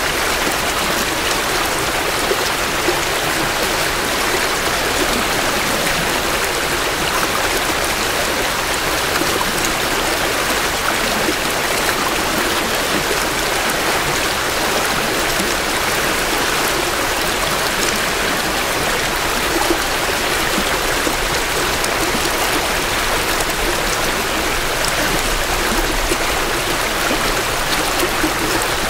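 Creek water flowing steadily over rocks in spring runoff, a dense, even rushing and babbling of a small stream heard close to the water's edge.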